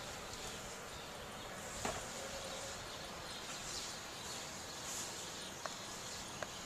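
Faint, steady hiss of outdoor ambience during a snowstorm, with a few small clicks.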